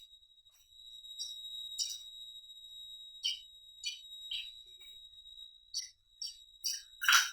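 Close-up eating sounds: short, irregular wet clicks and crunches of chewing, the loudest a fuller crunch near the end. A steady high-pitched whine sits underneath throughout.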